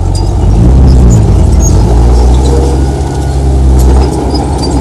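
Heavy diesel engine of earthmoving machinery running loud and steady, its pitch bending briefly about half a second in.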